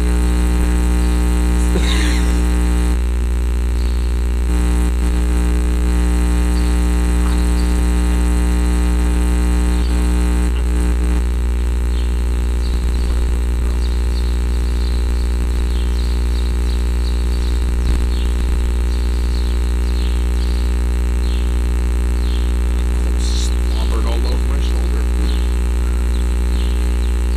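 Loud, steady low hum with many fixed tones layered above it, from a machine or an electrical drone. It does not change, and a couple of faint brief higher sounds come through it.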